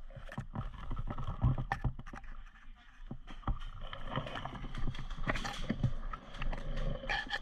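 A quick, irregular run of knocks and clicks, with rustling between them.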